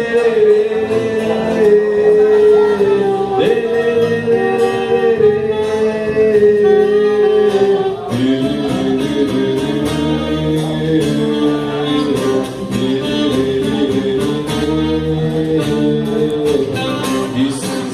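Instrumental break: a saxophone plays a melody of long held notes over a strummed acoustic guitar.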